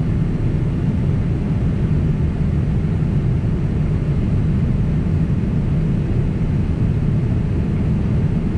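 Steady low rumble of a Boeing 767 in flight, heard from inside the passenger cabin: engine and airflow noise with no distinct events.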